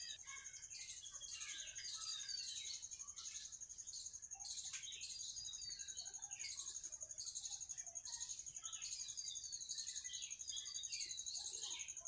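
Many short bird chirps and calls, coming often and irregularly, over a steady high-pitched insect buzz with a fast pulse.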